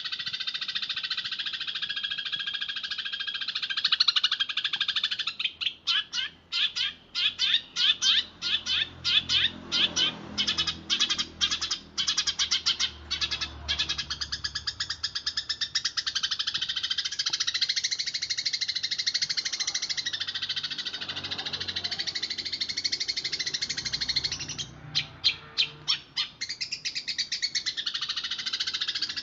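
Eurasian tree sparrows chirping in fast, dense rolls, the chirps running together without a break. There are stretches of very rapid rattling chirps from about five to fourteen seconds in and again briefly near twenty-five seconds.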